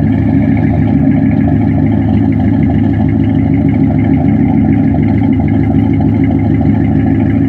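1973 Chevrolet Impala's V8 idling steadily, heard at the tailpipes through Flowmaster mufflers. It has an aftermarket cam and runs evenly on freshly fitted spark plugs, with no misfire.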